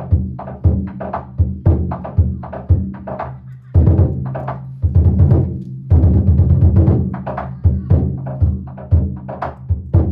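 Danjiri festival ohayashi: taiko drums beaten in a fast, driving rhythm with ringing strikes of small hand gongs (kane) over them. The drum sound drops out briefly just before four seconds in and comes back with a loud hit.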